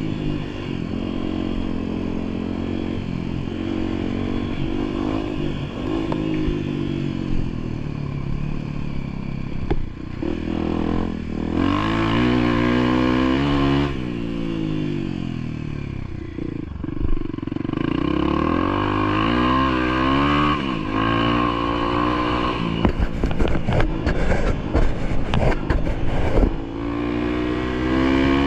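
A vehicle engine running under changing throttle, its pitch rising and falling again and again as it climbs and eases off. A run of clattering and scraping knocks comes over it near the end.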